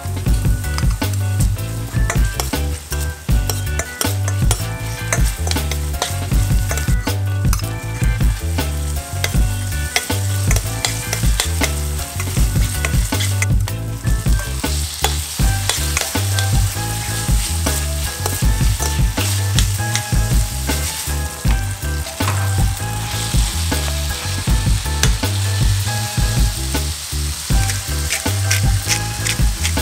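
Diced onion, garlic and chili sizzling in hot oil in a stainless steel pan, stirred with a metal spatula that scrapes and clicks against the pan.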